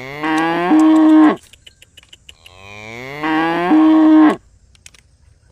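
A moo, heard twice: each call rises in pitch and ends on a steady held note before cutting off, and the two calls are identical in shape.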